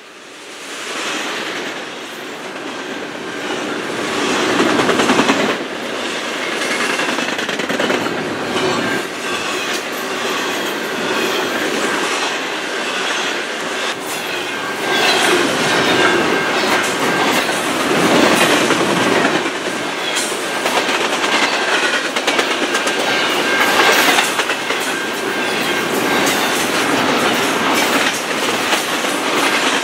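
Double-stack intermodal freight train rolling past close by: a steady rumble with a clacking of wheels on the rails. A thin steady squeal sounds over it from about halfway through.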